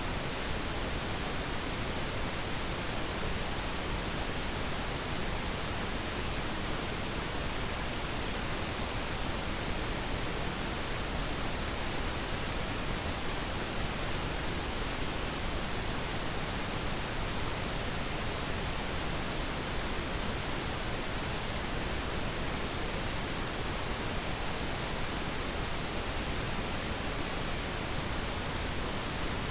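Steady pink noise: an even, unchanging hiss across the whole range, with no other sounds.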